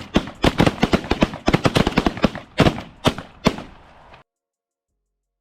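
A volley of shotgun blasts from several hunters firing at geese: many shots in rapid, overlapping succession that thin out after about three seconds. The sound cuts to dead silence a little after four seconds in.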